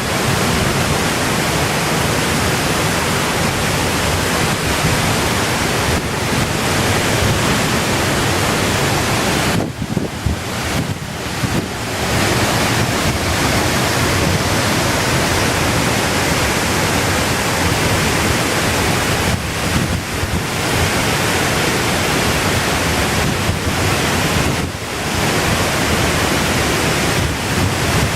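Waterfall pouring down: a loud, steady rush of falling water that dips briefly a few times.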